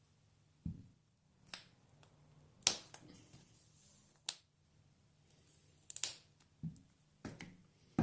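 A series of separate sharp clicks and knocks, about eight of them, irregularly spaced, over a faint steady low hum.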